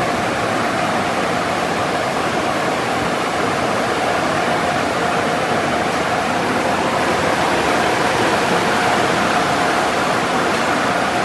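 Car wash equipment running: a steady rushing hiss of spraying water or blowing air, with a faint steady whine that fades out about a second in.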